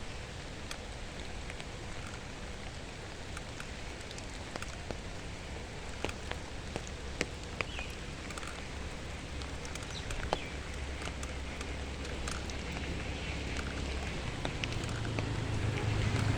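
Steady outdoor background hiss with scattered faint clicks and ticks; a low rumble builds near the end.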